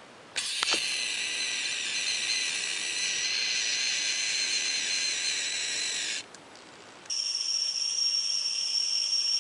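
An animal making a kettle-like whistling hiss, in two long stretches. The first, which starts with a click about half a second in, lasts about six seconds and carries several high tones at once. After a short break, the second starts at about seven seconds and holds a single piercing high tone.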